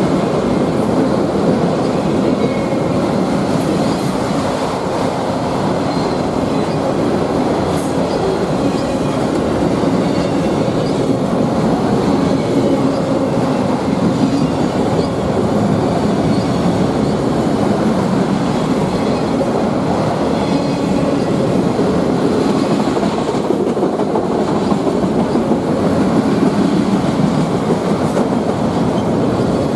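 Norfolk Southern freight train cars rolling past at close range: a steady loud rumble and rattle of steel wheels on the rails.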